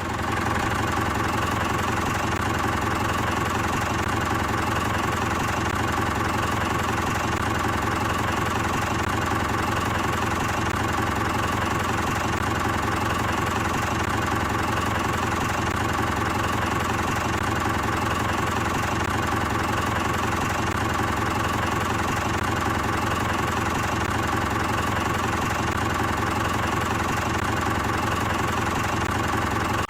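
A miniature engine running steadily at an even speed, with a fast, regular firing rhythm under a steady hum. It drives a mini water pump, and the sound cuts off abruptly at the end.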